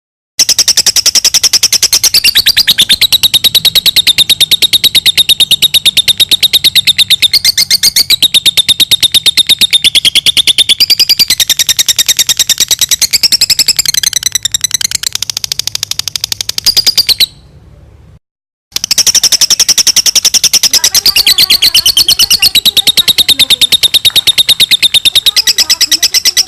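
Lovebird's long 'ngekek' chatter: a loud, rapid, unbroken run of shrill, high chirps, the kind of long call kept as a lure and tutor recording for other lovebirds. It drops out for about a second and a half some seventeen seconds in, then carries on.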